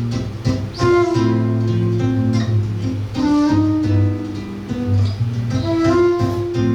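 Live acoustic music led by a seven-string guitar, playing plucked chords and melody over a low bass line.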